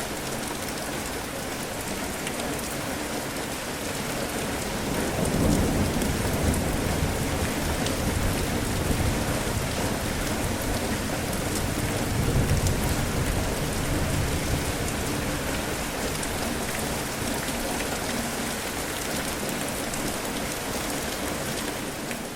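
Steady rain falling during a thunderstorm, with low thunder rumbling in twice, swelling about five seconds in and again about twelve seconds in.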